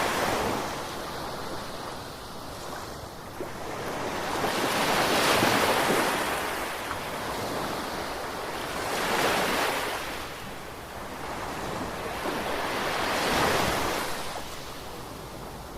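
Ocean waves breaking and washing onto the shore, surging and fading again roughly every four seconds.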